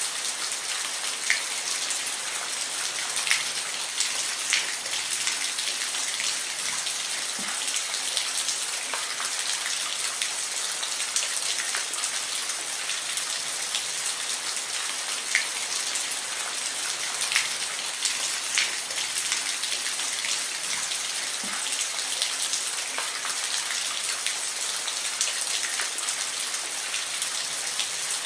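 Steady rain: an even hiss of falling rain, with single louder drops ticking sharply on a surface here and there every few seconds.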